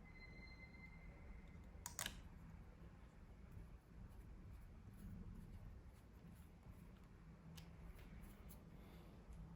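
Near silence with a few faint ticks and one sharper click about two seconds in, the small handling clicks of laptop parts being worked on.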